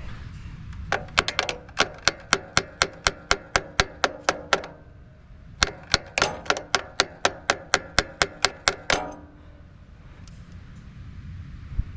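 Two runs of quick metallic taps, about five a second, each tap with a short ring; the first lasts about three and a half seconds and the second starts after a pause of about a second.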